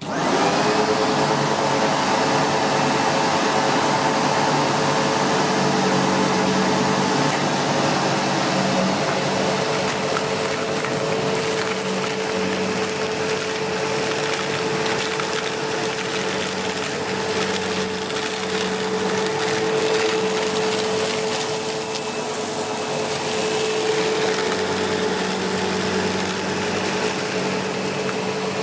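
SEBO X4 Extra bagged upright vacuum cleaner switched on, its motor spinning up within the first second, then running steadily with a held whine over a rushing of air as it makes a pass over carpet strewn with grit and cat litter.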